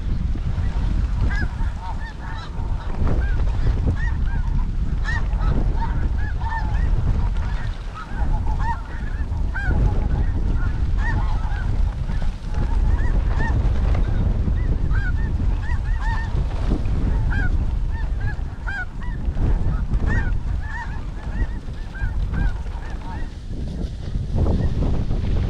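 A flock of snow geese calling, a dense, continuous chorus of short, high honks, over heavy wind rumble on the microphone.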